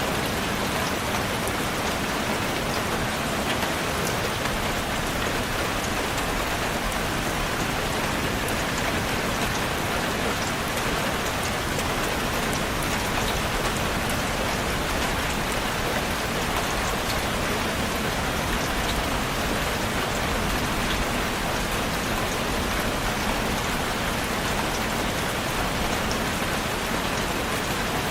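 Steady rain falling, an even hiss of many raindrops with scattered faint drop ticks.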